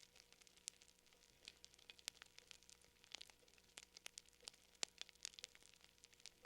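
Faint crackling fire: irregular sharp pops and snaps, several a second, over a faint steady hum.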